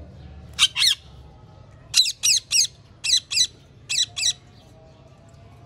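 Parrot squawking: about nine short, shrill calls in quick runs of two or three.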